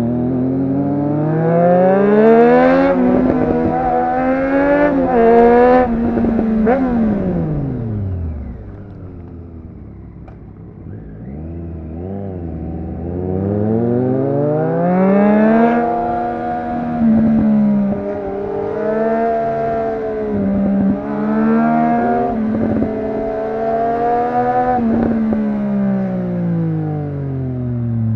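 Triumph Street Triple RS inline-three engine through a Yoshimura exhaust, accelerating hard through the gears, its pitch climbing and dropping at each quick upshift, then rolling off. After a quieter lull around ten seconds in, it pulls up through several more gears and falls away near the end.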